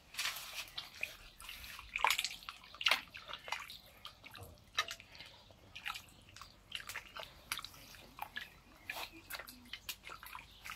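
Long ladle stirring about five litres of water in a large paella pan: irregular splashes and sloshes, with the odd click of the ladle.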